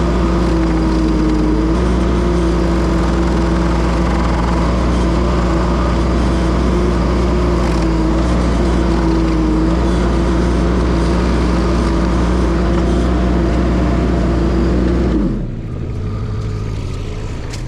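Case TL100 mini skid steer's engine running steadily at high throttle, driving a Toro hydraulic stump grinder attachment through a stump. About 15 seconds in the engine is throttled down and drops to a much quieter idle as the grinding ends.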